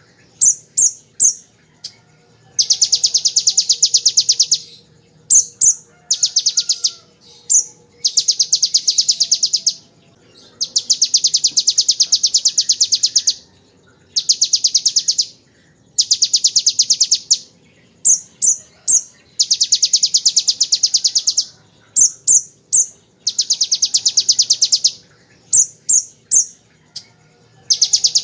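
A kolibri ninja sunbird singing in rapid, buzzy trills of about two to three seconds each, in the style of a bar-winged prinia's machine-gun 'ngebren' burst. Between trills come short runs of two or three sharp high notes, and the pattern repeats about every three seconds.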